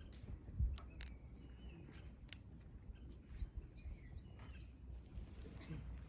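Firewood crackling in a campfire, with several sharp pops and snaps over a low rumble. Small wild birds chirp in short, wavering calls, several times throughout.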